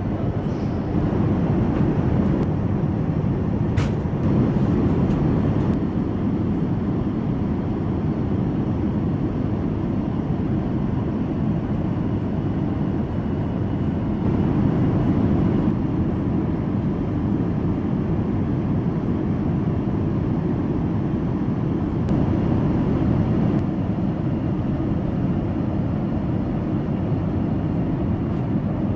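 Steady cabin noise of an Airbus A380 in cruise flight: a constant low rush of airflow and engines heard from inside the cabin. One light click about four seconds in.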